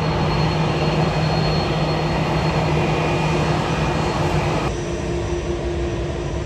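Steady noise of a jet airliner's engines, a broad rush with a low hum and a faint high whine. The higher hiss drops away suddenly near the end.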